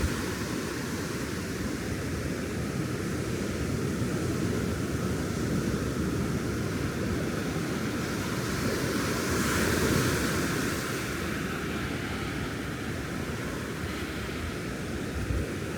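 Ocean surf washing steadily onto the beach, with one wave swelling louder about ten seconds in and then easing off.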